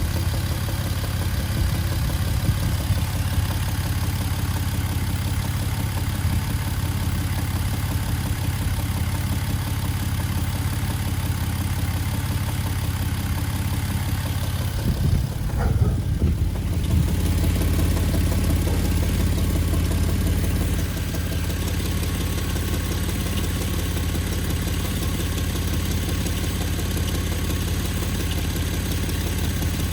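2011 Jeep Wrangler Unlimited engine idling steadily, with a low rhythmic clunking that the owner cannot place between an internal engine knock and a worsening exhaust leak. A short irregular disturbance comes about halfway through.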